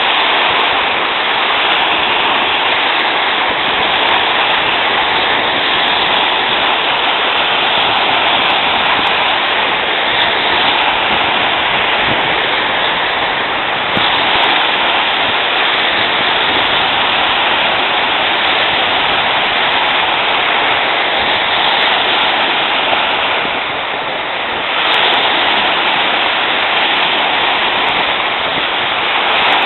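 Steady rushing of wind, easing briefly about three-quarters of the way through.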